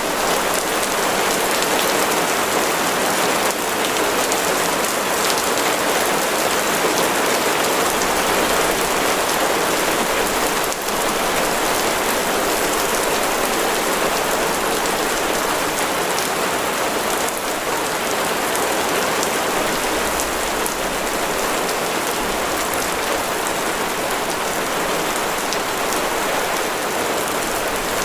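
Heavy rain falling steadily, a dense even hiss of drops pattering on a surface with no let-up.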